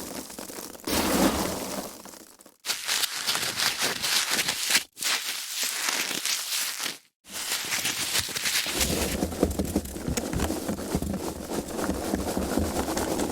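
Foam packaging being handled, with crackling, rubbing and squeaking in several stretches broken by brief pauses.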